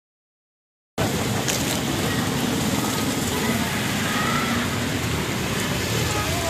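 Heavy monsoon rain pouring down, a steady, even hiss. It starts about a second in, after a brief dropout of dead silence.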